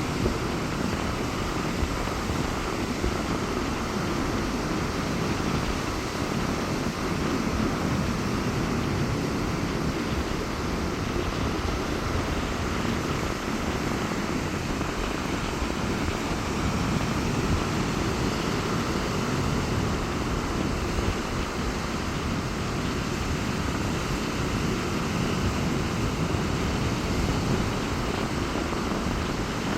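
Sea waves breaking on a beach in strong wind: a steady rush of surf, with wind rumbling on the microphone.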